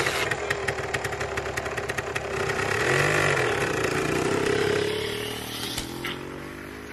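Motorcycle engine running just after it fires up, with a rapid steady firing beat. It rises in level around the middle, then gets steadily quieter over the last two seconds.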